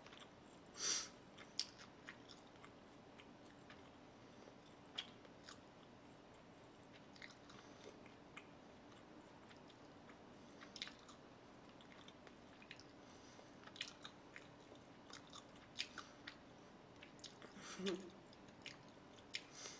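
Close-miked chewing and biting of food, with scattered soft wet mouth clicks and smacks.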